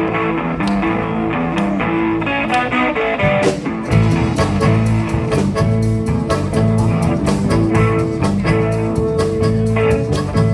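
Live band playing an instrumental passage of a country-blues song, led by guitar over a steady beat; the bass and low end come in fuller about four seconds in.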